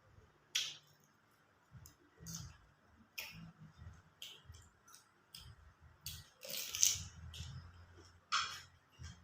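A person eating close to the microphone: wet chewing and lip-smacking clicks, a few a second, with a longer slurp about six and a half seconds in.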